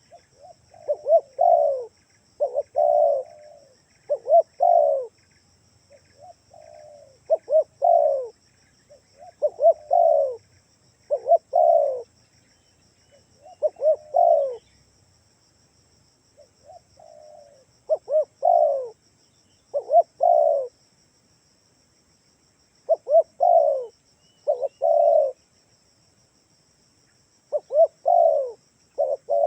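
Spotted dove (tekukur) cooing over and over in short phrases, with brief pauses between groups. This is a call track used as a lure to draw other spotted doves into answering.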